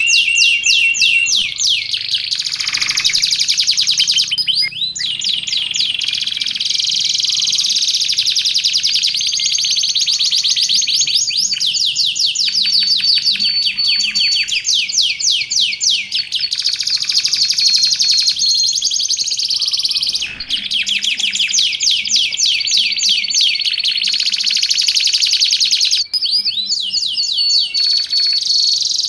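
Domestic canary singing a long, unbroken song of fast trills and rolls, with a few short steady whistled notes.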